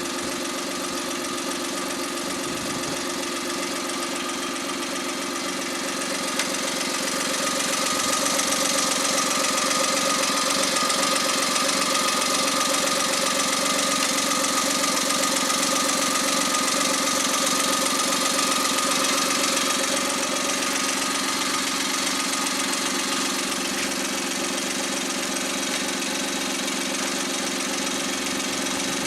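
Overhauled Suzuki K6A 660 cc turbocharged three-cylinder engine running steadily on its test run after overhaul. It gets a little louder about seven seconds in and eases back about twenty seconds in.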